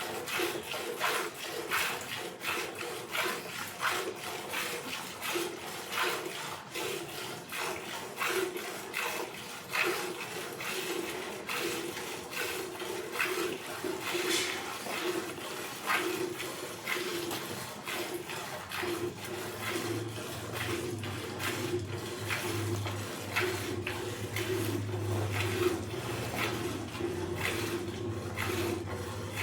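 Buffalo milk squirting by hand into a bucket: quick, repeated jets of milk hitting the bucket and the milk already in it. A low hum joins about two-thirds of the way through.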